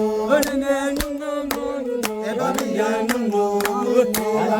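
Chanted singing over a steady held drone, with a sharp beat struck about twice a second.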